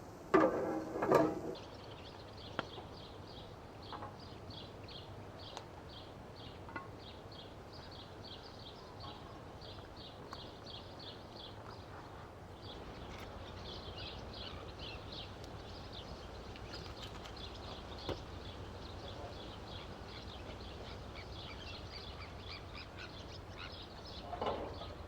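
Outdoor ambience with a long run of high chirps, about three or four a second. A brief clatter comes in the first second.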